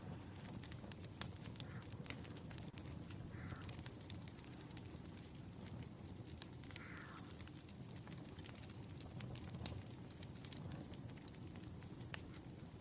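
Wood fire crackling: irregular sharp pops and snaps from burning logs over a low, steady rumble of the flames.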